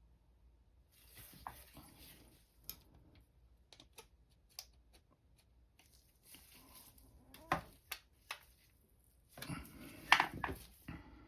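Hands working on oil-burner parts: scattered sharp metal clicks and taps with short bursts of rustling and scraping, the loudest click about ten seconds in.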